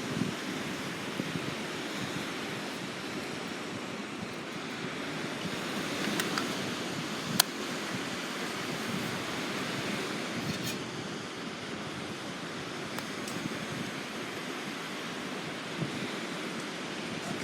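Sea surf washing steadily on the shore. A few sharp clicks break through, the loudest about seven seconds in.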